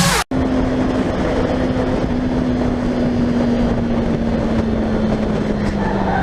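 Car driving noise picked up by a dashcam: steady road and engine rumble with a low hum that sinks slightly in pitch.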